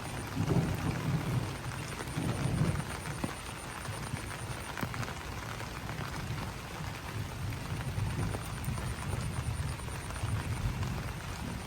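Rain falling on broad banana leaves, individual drops tapping and pattering over a steady wash of rain. A low, uneven rumble under it is strongest in the first few seconds.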